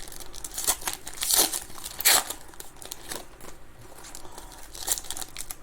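Plastic trading-card pack wrappers crinkling and tearing in short irregular bursts as packs are handled and ripped open.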